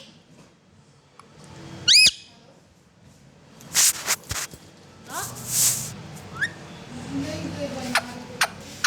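Pet parrot giving one loud, sharp rising whistle about two seconds in, followed by two short harsh hissing sounds, a few soft rising chirps and some sharp clicks.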